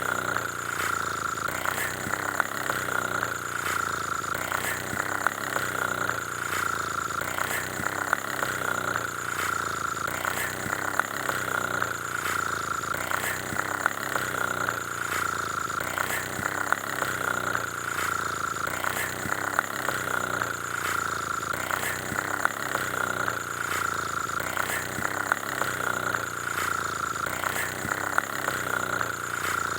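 A steady motor or engine sound running without pause, with a fine rattle of small ticks and a whine-like tone.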